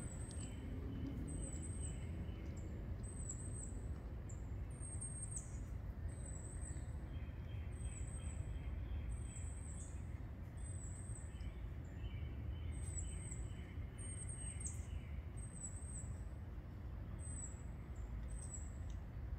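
Woodland birds singing: one bird repeats a very high, thin note about every second and a half, with fainter, lower songs coming and going, over a steady low rumble.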